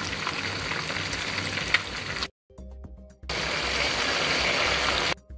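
Chicken legs with onion and carrot frying in oil in a pot, a steady sizzle with a few sharp clicks. It breaks off just after two seconds, leaving only faint steady music tones, then the sizzle comes back, with potato pieces now heaped in the pot.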